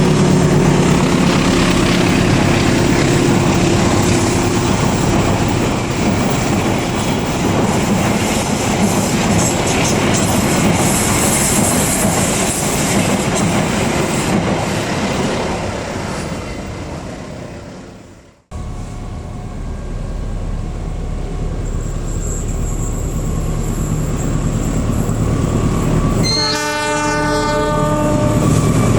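A train passing at speed, a loud rushing of wheels and cars that fades away, then cuts off suddenly. A second passage follows, a steady rumble with a short multi-tone horn blast near the end.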